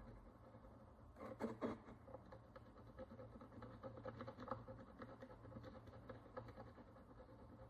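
Faint scraping and picking of a small hand tool working the crust off an ancient Roman bronze coin, with a brief louder run of scrapes about a second and a half in.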